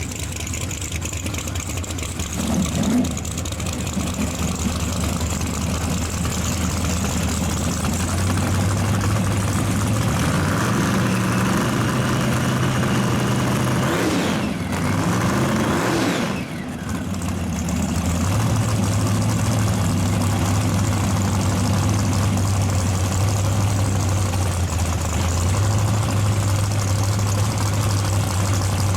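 Drag-racing car engines running at idle, steady and loud. Around halfway through, an engine's pitch sweeps down and back up again.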